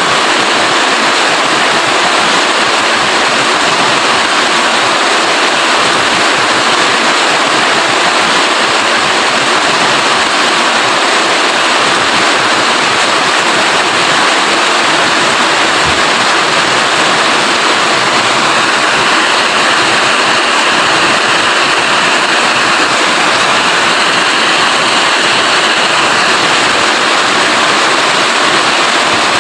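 Loud, steady rain, an even dense hiss with no breaks.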